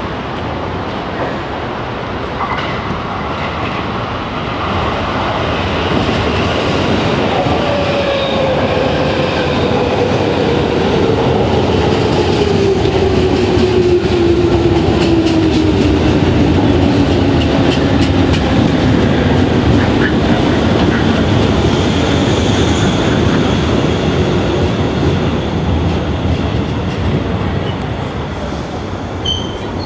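JR East 205-series electric train pulling into a station: wheels rumbling and clattering on the rails, growing louder to a peak halfway through. A whine falls steadily in pitch as the train slows, and high brake squeals start near the end.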